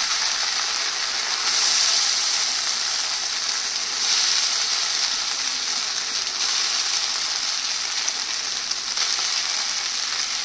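Soaked sabudana (tapioca pearls) frying in hot ghee with cumin seeds and green chilli: a steady sizzle that swells a little about two and four seconds in.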